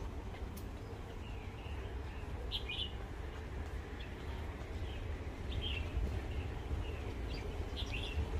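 Birds chirping, a few short high calls every second or two, over a steady low outdoor rumble.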